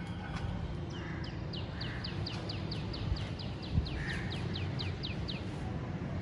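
A bird calling a quick run of about eighteen short notes, each sliding down in pitch, at about four a second, over a steady low background rumble.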